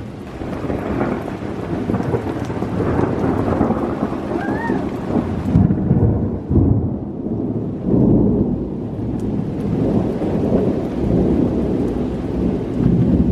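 Thunder rolling in long, swelling rumbles over steady rain.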